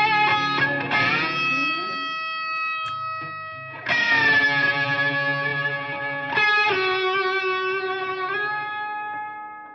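Electric guitar of the Donner DST-100 S-type played through an amplifier: wavering, vibrato-shaken notes, then chords struck about four and six and a half seconds in and left to ring and fade.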